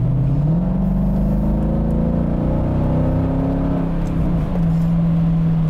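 Mercedes ML 55 AMG's 5.5-litre M113 V8 accelerating: the engine note jumps up about half a second in and climbs steadily, then drops back about four seconds in and runs on at a steady pitch.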